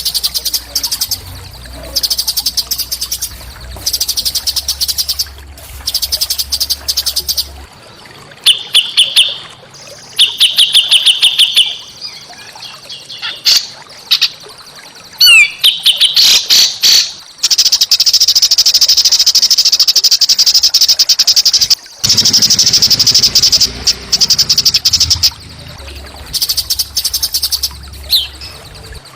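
Small songbirds singing fast, harsh rattling trills and chattering phrases in repeated loud bursts, the kind of rough 'kasar' song used as masteran to prompt caged songbirds to sing. There is one long unbroken run of song about two-thirds of the way through, and a low steady hum underneath at the start and again near the end.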